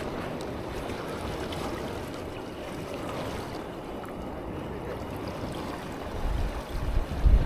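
Waves and water washing steadily. Low, uneven rumbles come in near the end, like wind on the microphone.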